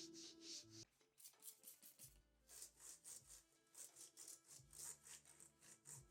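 A desk surface being wiped by hand, quick back-and-forth rubbing strokes at about three a second, with a short break about a second in.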